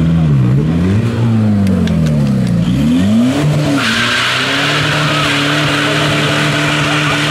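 Car engine revved up and down several times in quick swings. About four seconds in it changes abruptly to a steady, high-revving engine note under a loud hiss of spinning tyres: a burnout.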